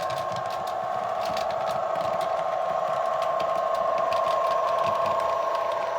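Loco-hauled passenger train giving a steady whine of two held tones with a fine rapid rattle, and scattered light clicks.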